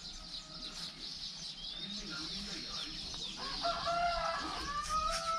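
Domestic chickens calling, with a drawn-out fowl call starting about three and a half seconds in, over the steady chirping of small birds.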